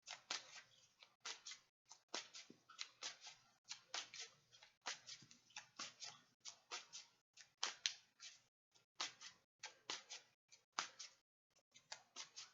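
Deck of tarot cards being shuffled by hand: a quick, even run of soft card slaps and swishes, about two or three a second.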